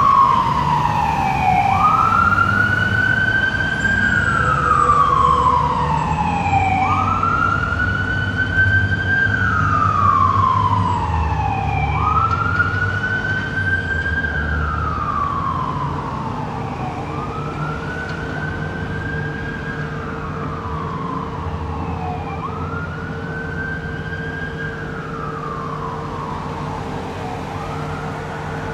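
An emergency vehicle's siren sounds a slow wail: each cycle rises quickly and falls slowly, about once every five seconds, over a low engine rumble. It grows gradually fainter.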